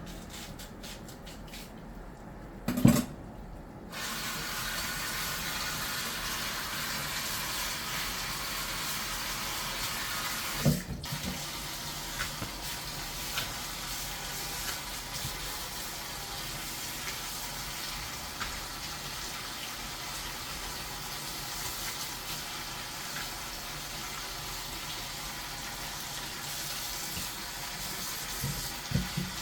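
Water running steadily from a kitchen tap, turned on abruptly about four seconds in, with a knock just before it starts and another about eleven seconds in.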